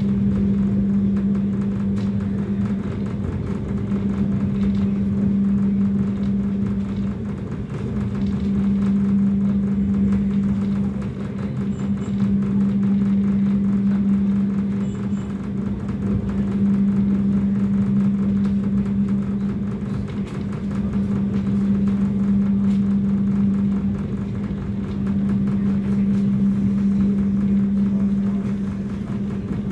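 Steady low hum and rumble of a long-distance passenger train, holding one pitch throughout, its loudness easing and swelling every few seconds.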